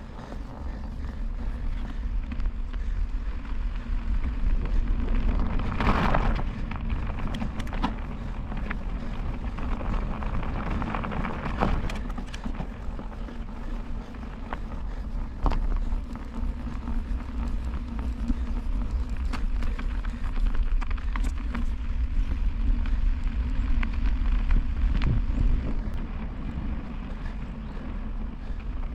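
Wind rumbling on the microphone over the road noise of a bicycle being ridden, with a short louder rush about six seconds in and scattered small clicks.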